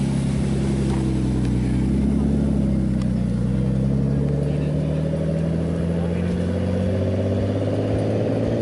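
A car engine running steadily. Its pitch sags a little, then climbs slowly over the last few seconds as the engine is revved gently.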